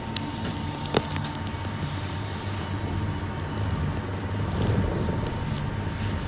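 City bus running, heard from inside the cabin: a steady low engine hum with road noise and a faint steady whine, and a sharp click about a second in.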